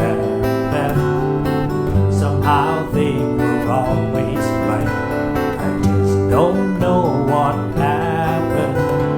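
Acoustic guitar music: steady strummed and picked chords of a slow country-folk song.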